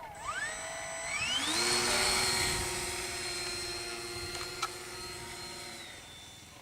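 Cessna 182 light aircraft engine being throttled up. A whine rises steeply about a second in, holds at a high pitch for a few seconds, then eases slightly near the end.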